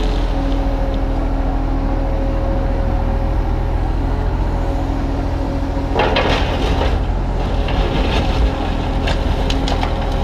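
Kubota U35-3 mini excavator's diesel engine running steadily under work. About six seconds in there is a burst of stone and rubble scraping and clattering, and a few sharper knocks near the end.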